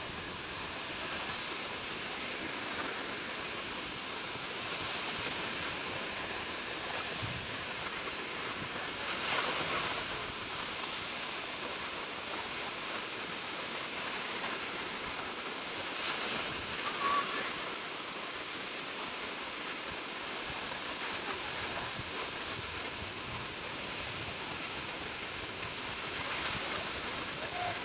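Sea waves washing onto the shore: a steady hiss of surf that swells as a wave breaks, three times, roughly every seven to ten seconds.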